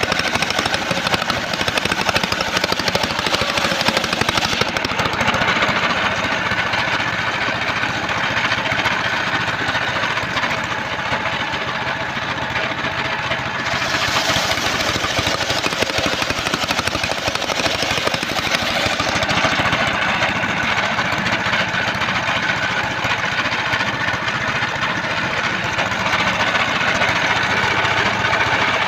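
Home-built portable circular sawmill running steadily: engine and spinning blade at work on trembesi (rain tree) timber. The high hiss eases about five seconds in and comes back about fourteen seconds in.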